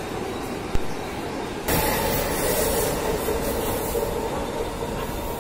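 Mumbai suburban local train running between stations, heard from inside the coach: steady rumble and clatter of wheels on track. There is a sharp click just under a second in, and the noise gets suddenly louder at about two seconds and stays that way.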